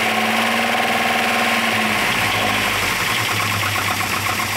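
The Talbot Sunbeam Lotus's 2.2-litre Lotus twin-cam four-cylinder is cranked on the starter for its first start after six years of storage. The steady starter whine ends about two seconds in and gives way to a lower, uneven running note as the engine catches, its ignition timing not yet set.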